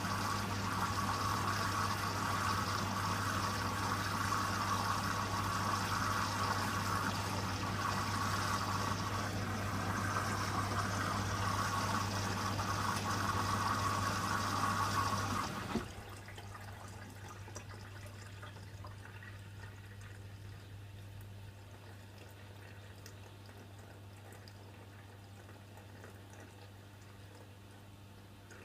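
Hoover WDYN 11746 PG8 washer-dryer emptying water during its first rinse and intermediate spin: a steady hum with water flowing through, which cuts off sharply about halfway through. Quieter trickling and dripping water follows and slowly fades.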